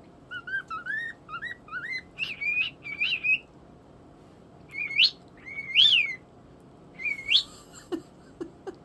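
Pet talking bird whistling: a quick run of short upward-sliding whistle notes, then a pause and three longer, louder whistles that sweep up and fall back.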